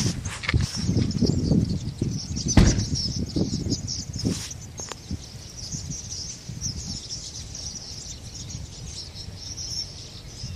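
A huge flock of birds: a dense, unbroken chatter of many high calls with the rush of wingbeats. Uneven low rumbling in the first few seconds, and one sharp thump about two and a half seconds in.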